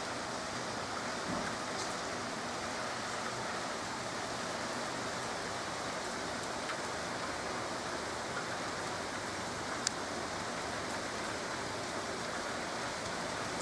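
Heavy rain pouring steadily, with the odd sharp tick of drops striking something hard and one brief click about ten seconds in.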